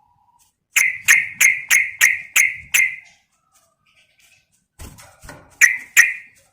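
Yellow-vented bulbul (trucukan) calling: a run of seven short, sharp notes at about three a second, then after a pause a shorter, uneven run near the end.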